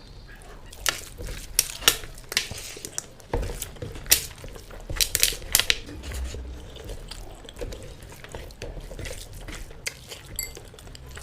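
Close-up eating sounds of curry and rice from a plate: irregular sharp, wet clicks and clinks of food and plate, with chewing.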